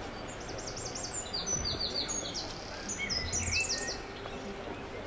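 A songbird singing a rapid run of high, quick downward-sweeping notes that stops about four seconds in, over steady background noise.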